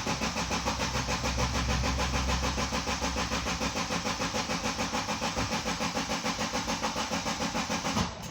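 2010 Subaru Liberty's boxer engine being cranked over by the starter motor, an even, rhythmic churning that never catches or fires, stopping suddenly about eight seconds in. This is the car's intermittent crank-but-no-start fault, which the mechanic goes on to trace to the crank angle sensor circuit.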